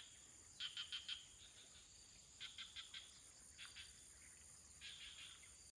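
Faint farm ambience: an animal calling in short runs of three or four quick notes, one run every second or so, over a steady high insect drone. The sound cuts off abruptly near the end.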